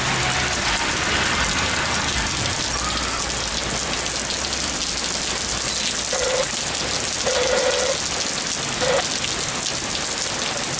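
Heavy rain pouring down in a thunderstorm, a steady, even hiss of rain on the ground and surfaces.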